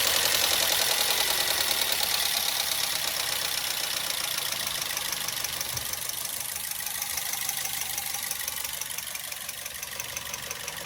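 Toyota Corolla GLI engine idling with a fast, even ticking clatter: the engine noise the car was brought in for, which the mechanic means to cure by adjusting the tappets. It grows gradually quieter.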